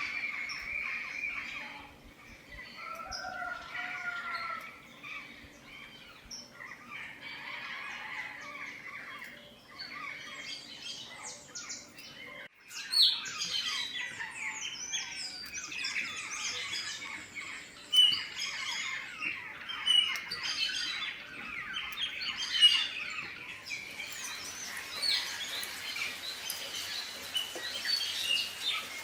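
Many small birds chirping and twittering together, with quick overlapping calls and trills. A faint steady low hum runs under the first part, and the sound breaks off suddenly about twelve seconds in before the chirping resumes, busier.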